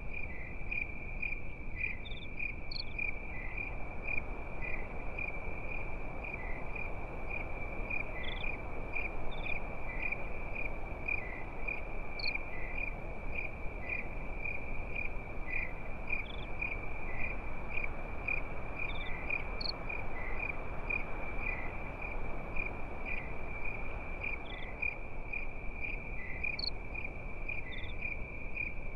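Crickets chirping at night: a continuous high trill with a regular pulsing chirp about twice a second and an occasional higher chirp every few seconds, over a soft, steady hiss.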